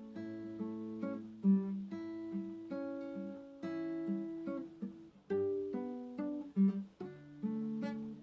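Acoustic guitar playing a slow, gentle piece: plucked notes and chords ringing on, a new note every half second or so.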